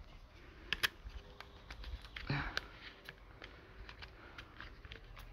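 Faint, scattered clicks and light knocks over a low background rumble, with a brief breathy sound a little over two seconds in.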